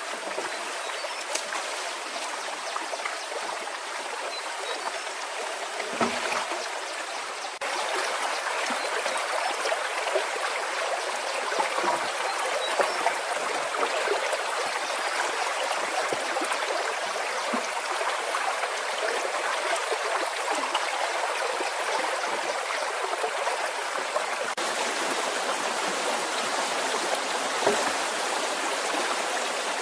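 Stream water running steadily, a little louder after a break about seven and a half seconds in.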